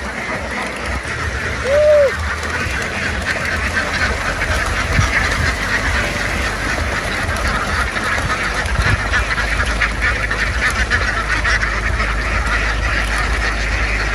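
A large flock of ducks quacking all at once in a dense, continuous din, with a steady low hum underneath and one short louder call about two seconds in.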